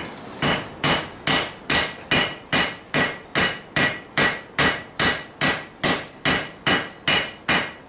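Hand hammer forging steel on a Vulcan 90-pound anvil: a steady run of about eighteen even blows, roughly two and a half a second, each with a short metallic ring.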